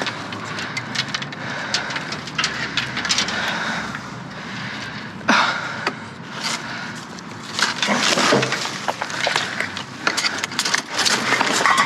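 Junk being handled and pulled from a curbside scrap pile: irregular rustling, clattering and cracking, with a sharp crack about five seconds in and busier clattering in the last few seconds.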